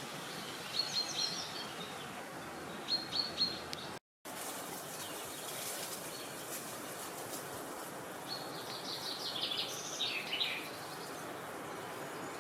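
Small birds singing short phrases of quick, high, downward-slurred notes, three bursts with the longest near the end, over a steady background hiss of wind. A brief gap of silence about four seconds in.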